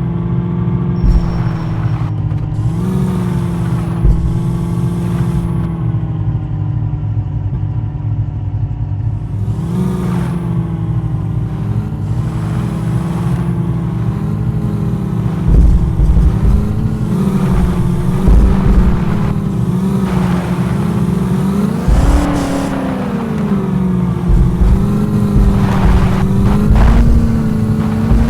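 Landi jeep engine running steadily and revving up a few times, the pitch rising and settling each time. Heavy low thumps and knocks come through the second half.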